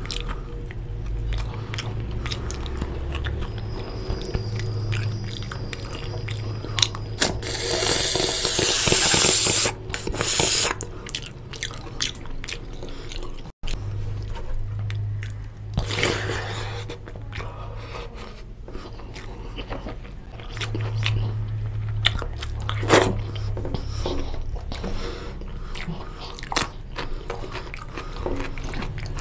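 Close-miked chewing and biting of mutton curry and goat trotters with rice, with many small clicks and two louder noisy stretches, about eight and sixteen seconds in.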